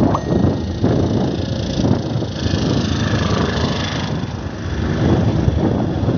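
Wind buffeting the microphone of a moving bicycle, with road traffic running underneath.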